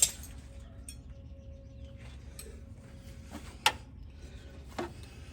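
Hand tools clinking on metal during bracket removal: a sharp clink at the start, a louder one a little past the middle and a softer knock near the end, over a low steady hum.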